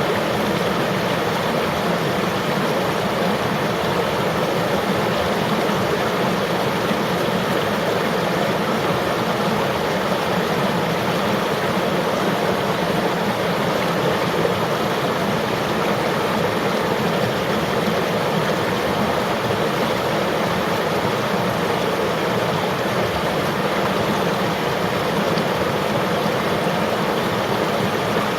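River water flowing in a steady, even rush, with no breaks or single splashes.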